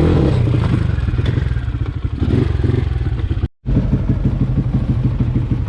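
Dirt bike engine running with a rapid, even firing pulse. About three and a half seconds in it cuts out completely for a split second, then the engine sound picks up again.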